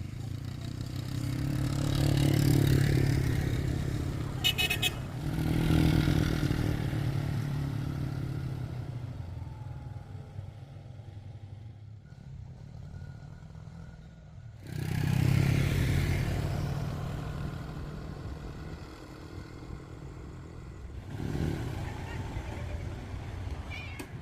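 Motor vehicle engines swelling and fading several times, as if passing close by, with a lower hum between the passes.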